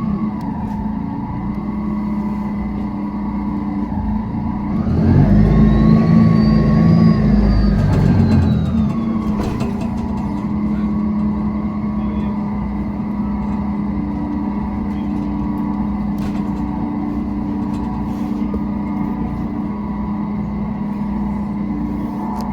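Mercedes-Benz city bus engine running steadily. About five seconds in it grows louder for a few seconds, with a high whine rising and then falling in pitch, and settles back to a steady run by about nine seconds.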